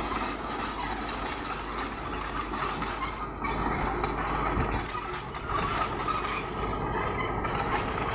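Bulldozer's diesel engine running steadily, with a noisy rumble that holds level throughout.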